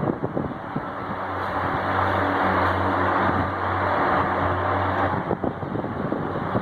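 Arge Max 50 cm wall fan running, its airflow buffeting the microphone. For a few seconds in the middle the buffeting eases and a steady low hum with a smoother rush of air comes through.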